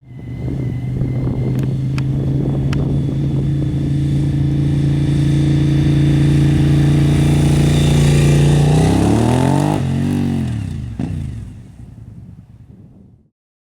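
Suzuki SV1000S V-twin on Two Brothers slip-on exhausts running past: a steady engine note grows louder for about eight seconds, then its pitch bends and drops sharply as the bike passes, and the sound fades away.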